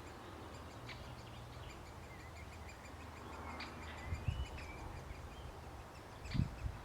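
Great spotted woodpecker nestlings calling from inside the nest hole: faint, high, repeated begging calls. Low rumbles on the microphone, with two louder low thumps about four seconds in and near the end.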